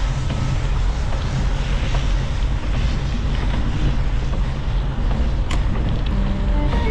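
Steady wind rumble on an action camera's microphone while cycling, with a hiss higher up from the rain-wet road and traffic. A single sharp click about five and a half seconds in, and music with held notes comes in near the end.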